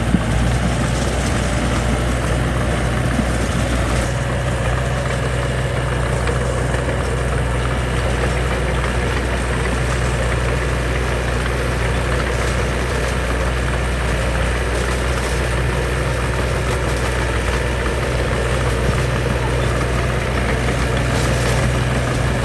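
Heavy construction machine's diesel engine running steadily at an even speed, a deep constant drone.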